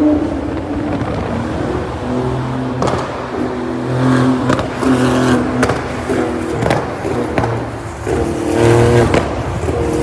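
Supercar engine running at changing revs, its pitch stepping up and down, with several sharp cracks from the exhaust.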